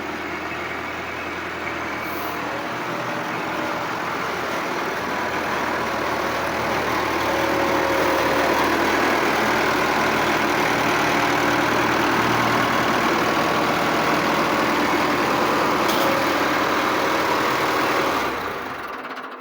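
Landini tractor's diesel engine running steadily, growing somewhat louder over the first several seconds, then dying away near the end.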